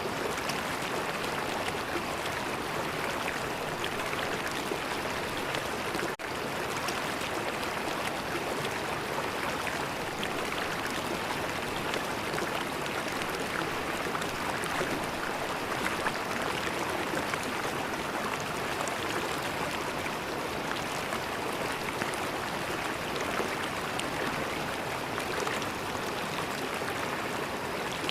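River water flowing and gurgling over stones in a steady rush, with a momentary dropout about six seconds in.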